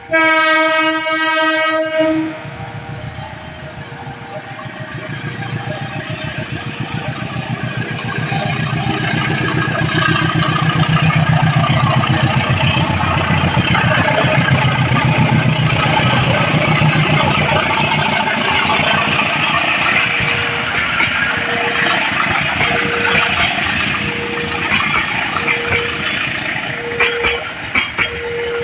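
Train horn blast of about two seconds, then a passing train's rumble and wheel clatter that builds and holds, with sharp wheel clacks near the end. Throughout, a level-crossing warning bell rings steadily about once a second.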